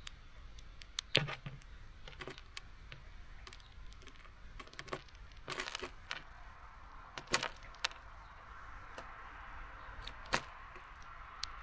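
Irregular sharp clicks and taps at a bird feeder, from small birds pecking at seeds and hopping on the feeder, with a low knock about a second in.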